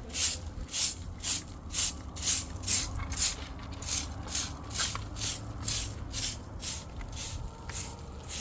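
Rhythmic rasping strokes, about two and a half a second, kept up evenly throughout: a repeated back-and-forth rubbing or scraping action.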